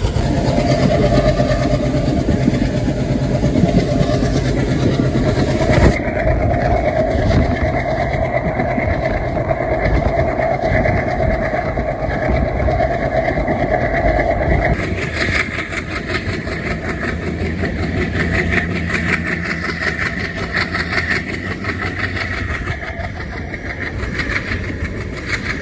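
Passenger train under way behind a WDP3A ALCO diesel locomotive: the engine runs with a steady drone over wheel and rail noise. The sound changes abruptly about six seconds in and again about halfway through, after which a fast rhythmic rail clatter takes over.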